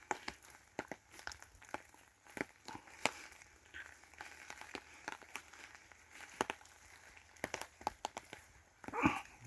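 Faint, irregular light crackles and crunches, scattered a few to the second, with no steady background sound.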